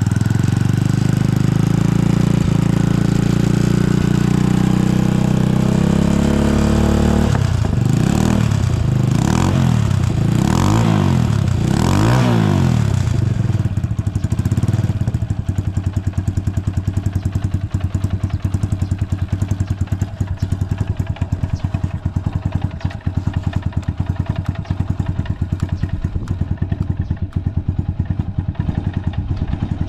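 Honda FTR223's single-cylinder engine through a 4-inch Supertrapp full exhaust, running at a raised idle, then revved four times in quick succession about eight to thirteen seconds in, then settling to a steady, pulsing idle. The engine runs with no abnormal noises.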